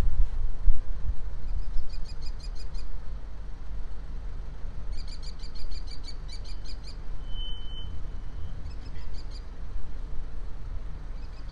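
Small birds chirping in three short runs of rapid, high, repeated notes, over a steady low rumbling noise.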